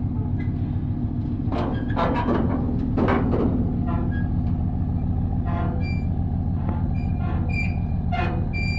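A vehicle driving at road speed, heard from inside the cab while towing a trailer: a steady low rumble with scattered knocks and rattles and a few brief squeaks near the end.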